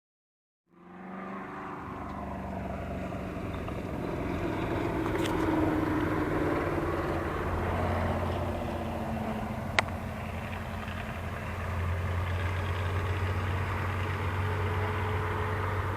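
Engines of classic and retro cars running as they drive past on a parade lap, the sound starting about a second in and building over the next few seconds. A single sharp click about ten seconds in.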